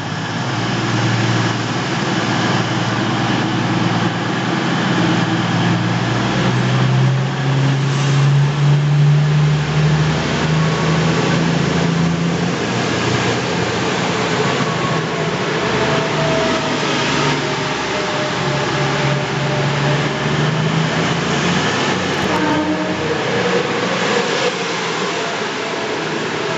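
Diesel passenger train pulling out of the station, its engines running loudly under power as it accelerates away, the engine note swelling and easing.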